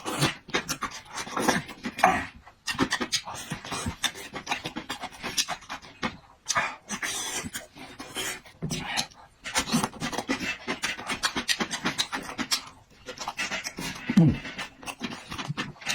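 Close-up eating sounds: wet chewing, smacking and slurping of food in quick, irregular bursts, with heavy breathing through the nose.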